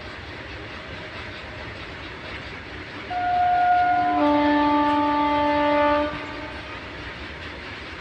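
Indian locomotive horn sounded for about three seconds over the steady rumble of a running train, starting on a single higher note and then changing to a fuller, lower chord before cutting off.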